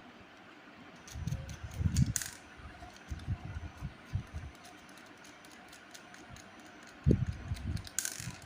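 Handling noise: irregular low knocks and bumps in several clusters, with faint clicks and two short scraping rasps, one about two seconds in and one near the end.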